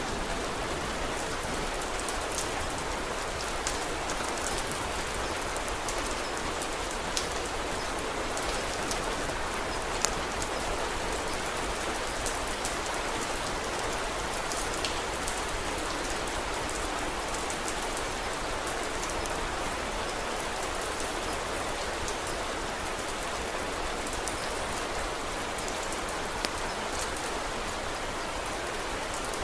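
Steady rain falling, an even hiss, with occasional sharp crackles from a wood fire scattered through it.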